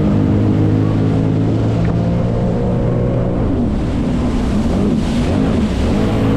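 Jet ski engine running under way, holding a steady pitch and then wavering up and down in the second half, over a rush of water and wind.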